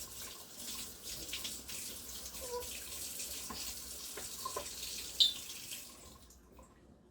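Water running from a kitchen tap, shut off about six seconds in, with a single sharp click just before it stops.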